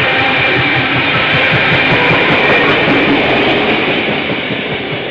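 Clyde Engineering T-class diesel-electric locomotives passing under power, a loud mix of engine and wheel-on-rail noise that begins to fade near the end as the train moves away.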